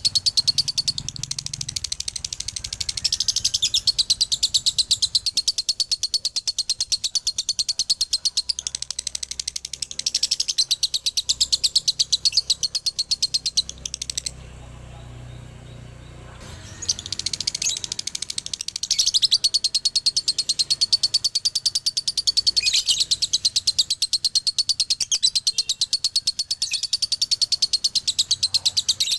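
Male lovebird singing its long, rapid, high-pitched chattering trill (the 'ngekek' song), stopping for about two seconds midway and then starting again.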